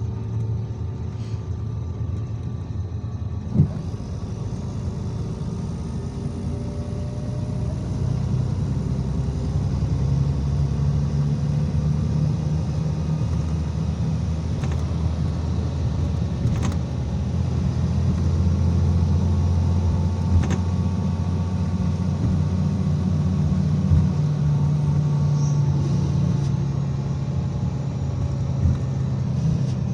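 IVECO Crossway 13M city bus under way: engine and drivetrain running with a steady low rumble that builds a little as the bus picks up speed, with a few short knocks or rattles.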